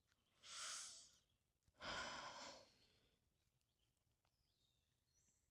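A person's breathing: two soft breaths, one drawn in and one let out like a sigh, about a second apart.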